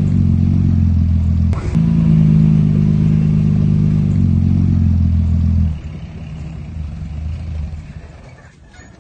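Heavy diesel engine of construction machinery running steadily and loud, with a short click about one and a half seconds in. About two-thirds of the way through it drops sharply in level and fades away.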